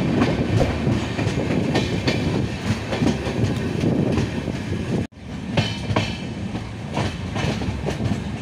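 Passenger train running at speed, its wheels clicking over the rail joints in a steady clickety-clack, heard close from an open coach window. The sound cuts out abruptly for an instant about five seconds in, then the same running noise resumes.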